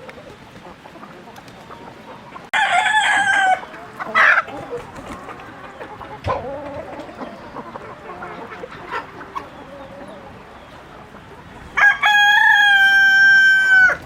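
A rooster crowing: a short crow about two and a half seconds in and a long held crow near the end, with hens clucking softly between.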